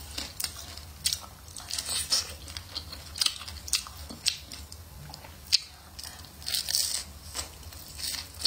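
Close-miked eating: crunchy bites and chewing on the crisp skin of a chicken leg, an irregular run of sharp crunches with one louder crunch about five and a half seconds in.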